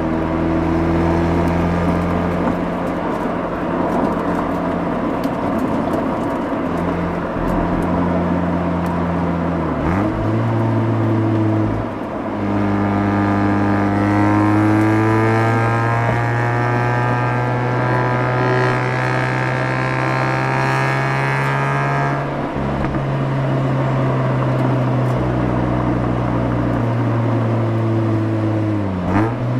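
Mazda RX-8's twin-rotor Renesis rotary engine heard through its exhaust while driving. The pitch changes abruptly around ten seconds in, then climbs slowly and grows fuller for about ten seconds as the car pulls under load, and eases back before another change near the end.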